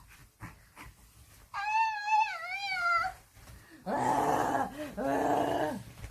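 Yorkshire terrier giving a wavering, high-pitched whine, then two long rough growls about four seconds in.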